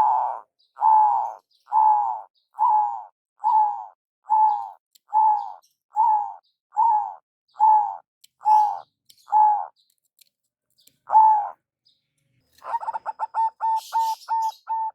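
Zebra dove (perkutut) calling: a steady series of about a dozen cooing notes, roughly one a second. After a short pause comes one more coo, and near the end a quick run of short clipped notes.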